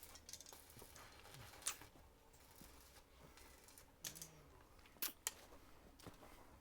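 A few sharp clicks and taps, four or five in all, spaced irregularly over a faint background hum.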